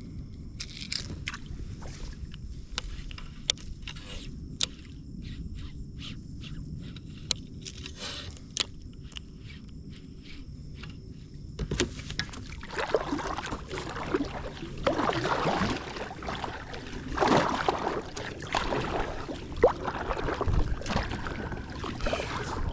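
Water sloshing and splashing around an inflatable packraft, preceded by scattered sharp clicks; the splashing grows louder and more irregular about halfway through.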